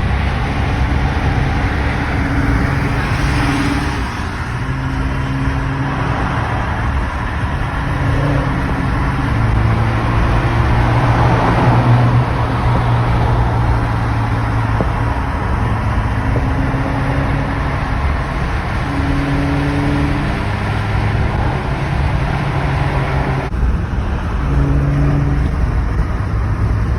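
Car engine and exhaust running at changing revs, the pitch holding and then stepping up or down every second or two, over steady road noise while driving among many cars.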